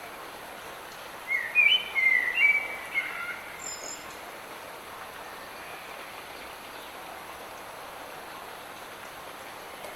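Light rain falling steadily, with a songbird singing one short phrase of clear notes stepping up and down in pitch, about a second in.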